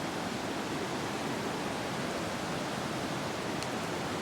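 Steady rush of a waterfall, the even roar of falling water.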